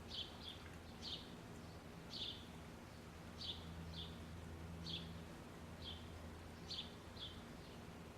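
A small bird chirping over and over, short high chirps about once a second, some in quick pairs, over a faint steady low hum.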